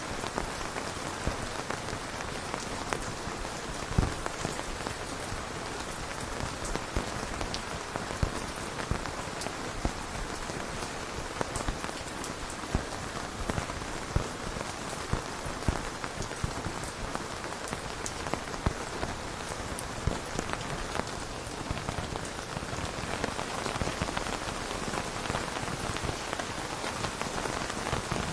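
Steady rain falling, with scattered individual drops tapping a little louder above the even hiss.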